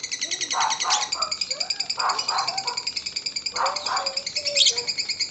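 Lovebird singing its long, fast chattering trill (ngekek), high-pitched and unbroken. Lower calls repeat under it about every second and a half.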